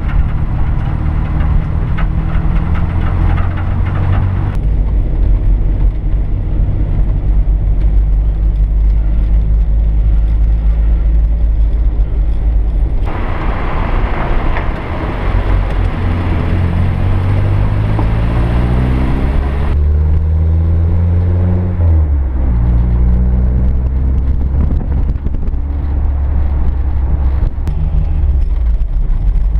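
Triumph Herald 13/60's four-cylinder engine running as the car drives, heard from a camera mounted on the body. Partway through the engine note climbs steadily as the car accelerates, then drops sharply; in the middle stretch, with the camera low beside the front wheel, louder tyre and road noise is mixed in.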